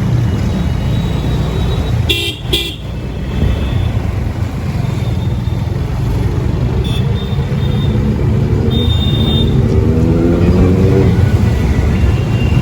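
Motorcycle engine running under way with a steady low rumble. A vehicle horn honks twice about two seconds in, shorter horn toots come later, and the engine note rises near the end as the bike speeds up.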